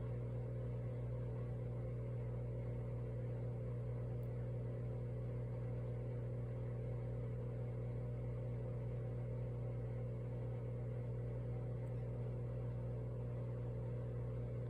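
A steady low hum, with a strong low tone and several fainter tones above it, unchanging throughout.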